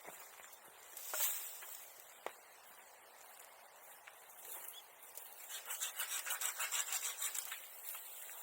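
Hand saw working through wood in quick rasping strokes during the second half, after a brief scrape about a second in and a single sharp click a little after two seconds.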